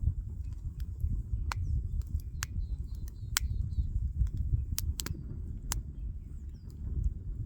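Wood fire crackling: sharp, irregular pops over a steady low rumble.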